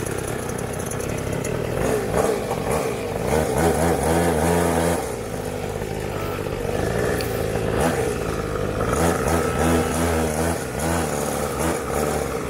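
Small 49cc two-stroke pocket bike engine running, revving up twice as the bike pulls away.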